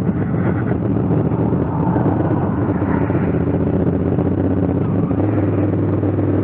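2019 Honda Africa Twin CRF1000L's parallel-twin engine running steadily while riding, mixed with wind and road noise. About five seconds in, the engine note settles onto a steadier, lower tone.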